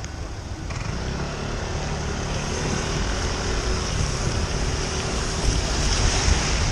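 A vehicle driving, its engine and road noise rumbling steadily with a hiss over the top, growing somewhat louder from about a second in.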